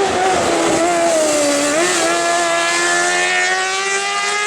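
Race car engine under load: its pitch falls as it comes off the throttle, blips briefly about two seconds in, then rises steadily as the car accelerates.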